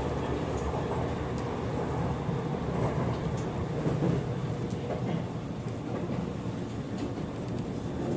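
Steady running rumble of an Aichi Loop Railway electric train heard from inside the car, with a few faint clicks from the wheels on the track.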